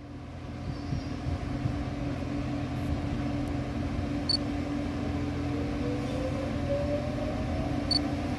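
Train running past the platform: a steady mechanical hum that swells over the first couple of seconds, with a whine rising in pitch in the second half.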